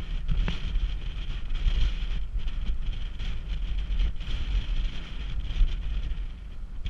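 Wind buffeting the microphone in uneven gusts over a steady hiss.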